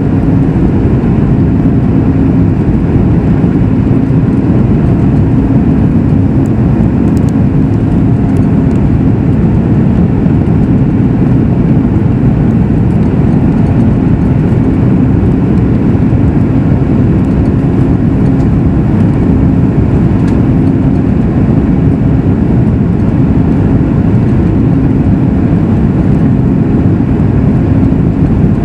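Steady, loud cabin noise inside a Boeing 737 MAX 8: the rumble of its CFM LEAP-1B turbofans and the airflow, with a faint steady hum.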